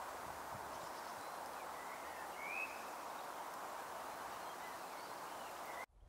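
Faint chirps of small birds over a steady outdoor background hiss, the clearest chirps about two seconds in; the sound cuts off suddenly just before the end.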